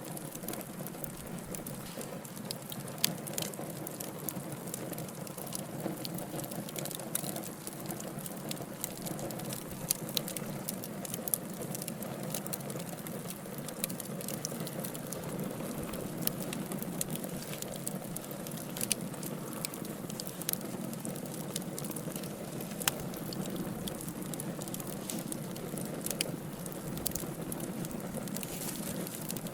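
Burning logs in a wood fire crackling, with frequent sharp pops and snaps over a steady low hiss and rumble of flames.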